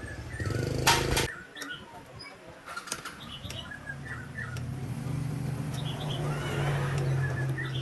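Small birds chirping repeatedly, with a brief loud hiss about a second in and a steady low hum that builds from about four seconds in.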